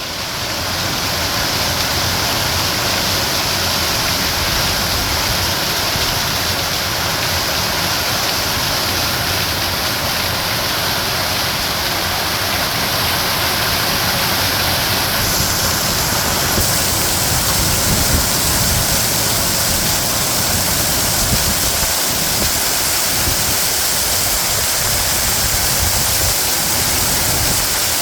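Hailstorm: hail and rain pelting down in a dense, steady roar.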